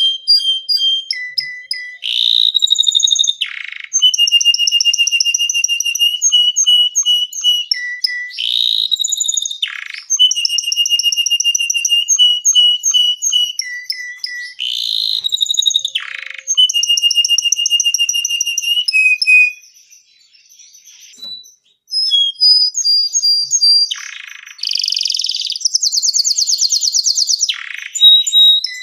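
Domestic canary singing a long, lively song of rapid high trills in repeated phrases. Every few seconds the trills are broken by a loud sweeping note. The song pauses briefly about two-thirds of the way through, then goes on with a fast buzzy trill.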